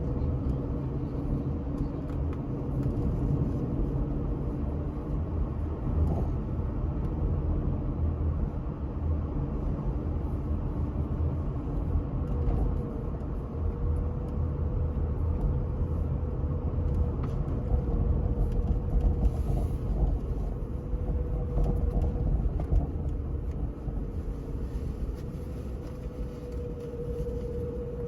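Steady low rumble of a running vehicle, with a droning hum under it.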